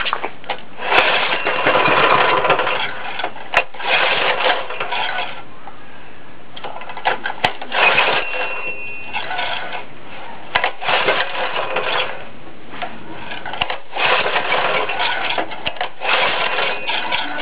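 Honda GX140 single-cylinder engine being pull-started again and again on starter fluid: about five rattly bursts of cranking, each a couple of seconds long with short pauses between. The engine does not catch and settle into a steady run.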